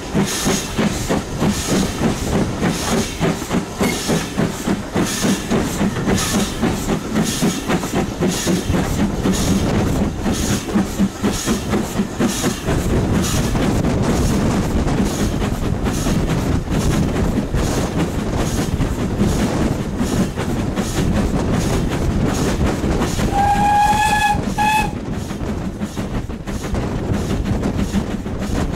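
Steam train running, heard from aboard, with a regular rhythmic beat through the first half. Late on, the locomotive's whistle sounds: one long blast followed by a short one.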